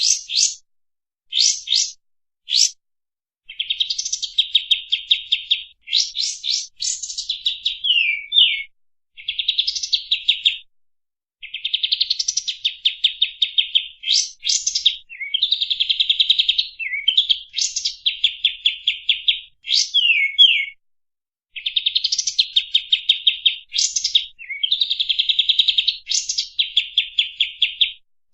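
Kapas tembak bulbul singing fast, dense trilling phrases of one to three seconds, separated by short pauses, with quick downward-sliding notes between some of them.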